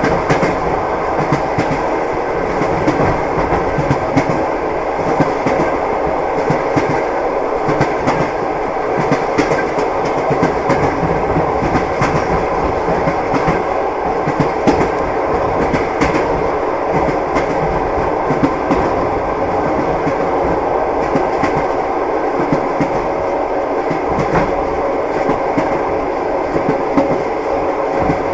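Train wheels clicking over rail joints in a steady clickety-clack, over the constant rumble of a moving passenger carriage, heard from inside the car.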